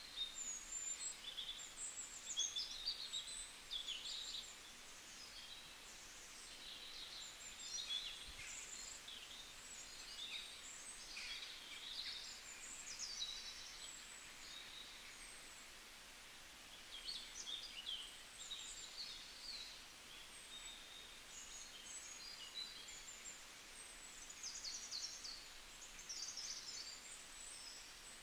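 Small birds chirping and twittering in quick, overlapping bursts, over a faint steady hiss.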